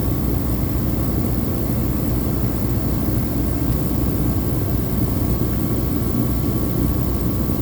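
Diesel heater running steadily, its blower and burner making an even, unbroken rush with a low hum underneath.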